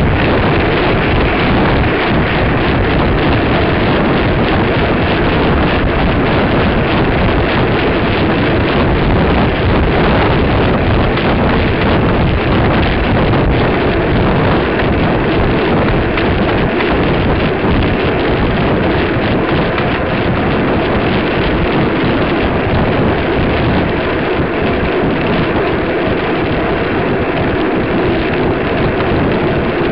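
Loud, steady wind noise rushing over the microphone, a continuous rumble and hiss with no distinct events.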